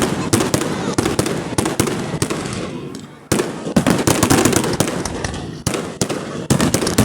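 Fireworks display going off: dense, rapid crackling and bangs, with a fresh loud burst about three seconds in that then dies away.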